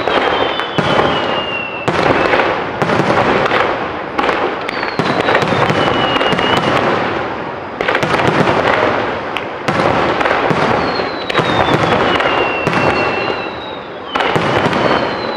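Aerial fireworks display: a dense, continuous run of shell bursts and crackling, with several high whistles that slide down in pitch.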